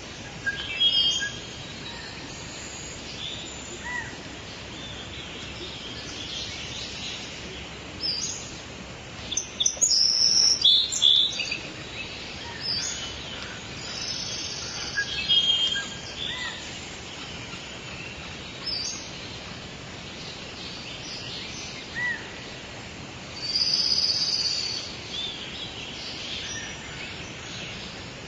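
Wild birds chirping and calling on and off, with short high calls scattered throughout and louder flurries about ten seconds in and again near twenty-four seconds, over a steady outdoor hiss.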